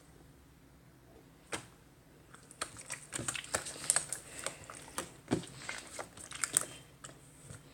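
Clear slime being pressed and played with by hand, giving small sharp pops and clicks: one near the start, then a dense run of them for about four seconds before it falls quiet near the end.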